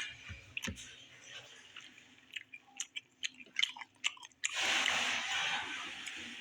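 A person chewing a mouthful of seasoned rice close to the microphone: many small wet mouth clicks, then a steady hiss-like noise for over a second, starting about four and a half seconds in.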